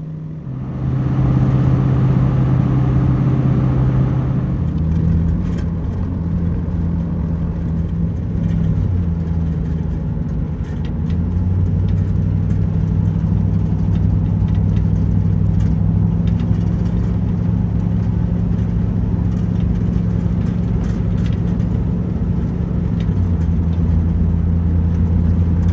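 Van engine and road noise while driving, a steady low hum that gets louder about a second in and steps to a new pitch several times.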